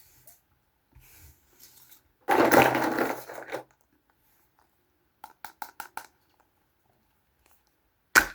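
Hands unpacking small Kinder Surprise toys and their packaging. There is a loud crackling crinkle for about a second, then a quick run of about five small clicks, and a sharp snap near the end.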